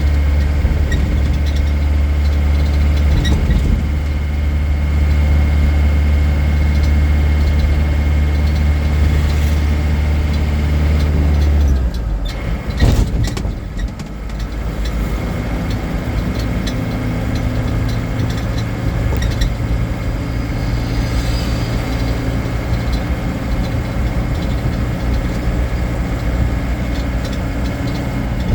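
Vehicle engine running steadily with a strong low hum. About twelve seconds in, the low hum drops away, followed by a brief knock and then a lighter engine note.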